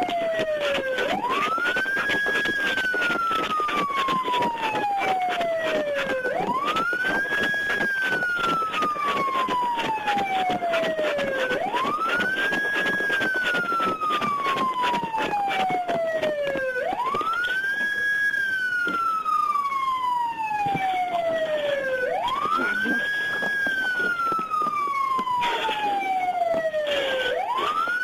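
Police car siren in a slow wail, rising quickly, holding briefly, then falling slowly, about once every five seconds, over a steady crackling noise.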